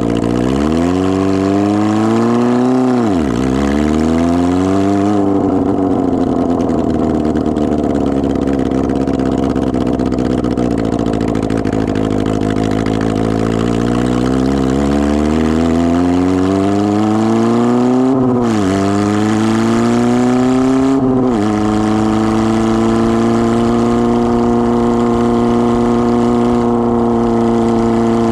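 Unmuffled engine of a 1999 Kawasaki ZR-7 motorcycle running with no exhaust muffler, loud. Its pitch climbs and drops sharply several times, like throttle-ups and gear changes, and from about three quarters of the way through it holds a steady pitch.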